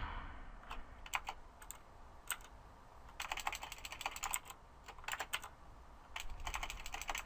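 Typing on a computer keyboard: irregular key clicks, sparse at first, then a quick run of keystrokes about three seconds in and more bursts near the end.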